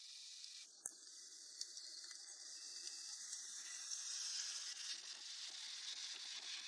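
A steady high hiss that slowly grows louder, with a single sharp click about a second in.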